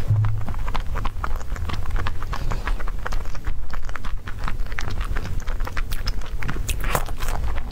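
Close-up mouth sounds of someone chewing soft cream-topped cake: a steady run of wet smacks and small clicks picked up by a clip-on microphone.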